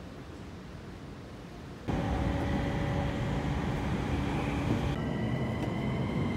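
Electric commuter train running, heard from inside the carriage: a low rumble with a steady whine over it. It starts suddenly about two seconds in, after a quieter station hum. About five seconds in the whine shifts higher.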